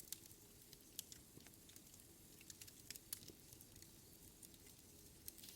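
Wood fire burning in a fireplace, faintly crackling: a low steady rumble of flame with scattered sharp pops of burning wood, louder ones about a second in and around three seconds in.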